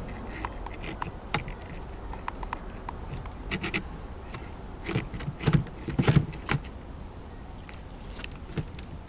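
Scattered clicks, knocks and scrapes of wooden beehive frames and boxes being handled and pried apart, loudest in a cluster of knocks a little past the middle.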